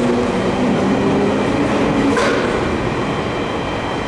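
JR 211 series electric commuter train moving along a station platform, its running noise carrying several steady tones over a dense rumble. The tones fade out after about two and a half seconds, and a brief high sweep comes about two seconds in.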